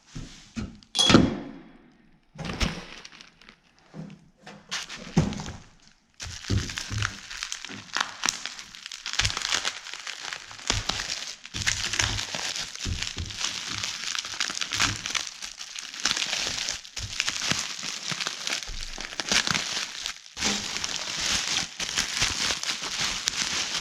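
Headlamp packaging being unpacked by hand: a few knocks and thuds of the box and its contents in the first seconds, then continuous crinkling and crackling of packing material being pulled off.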